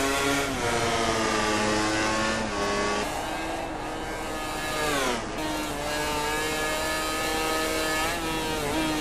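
1000 cc four-stroke MotoGP racing motorcycle engines running at high revs, their pitch climbing in steps through gear changes and falling steeply about five seconds in.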